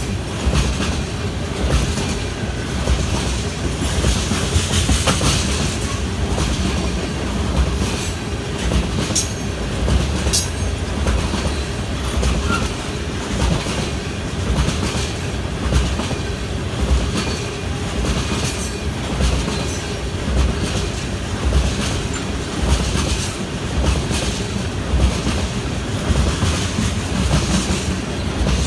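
A freight train of tank cars rolling steadily past, a continuous rumble with the wheels clacking rhythmically over the rail joints. There are brief high wheel squeals about nine and ten seconds in.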